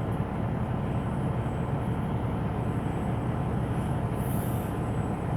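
Steady low rumble of a running vehicle, even and unbroken throughout.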